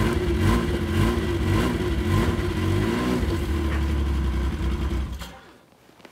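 Engine of a tracked machine running to turn its rubber track round, its note rising and falling about twice a second as the track moves. It shuts off about five seconds in. The track is being turned so that a loose, poorly clipped joint comes round to the top for refitting.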